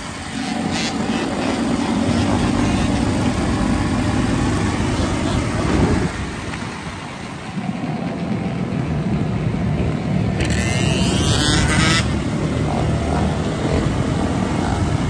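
Dirt bike engine running while riding, easing off about halfway through and then pulling again. A short burst of hiss comes about two-thirds of the way in.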